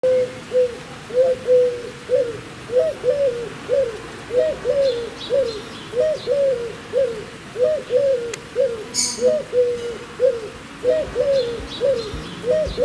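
A bird repeating a short, low, rising-and-falling call about twice a second, with faint high chirps from small birds now and then.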